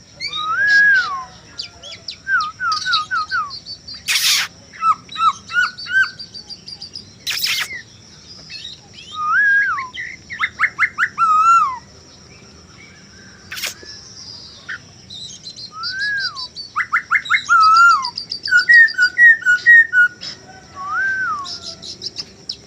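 A male poksay hongkong laughingthrush singing loud whistled phrases: slurred notes that rise and fall, quick runs of repeated notes and higher rapid trills, in bursts with short pauses. A few sharp clicks cut in three times.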